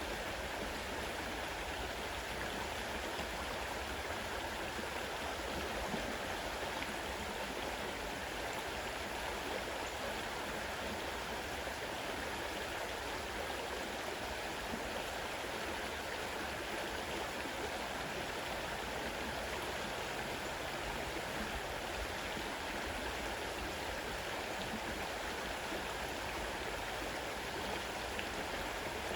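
Fast-running river water, a steady, even rush.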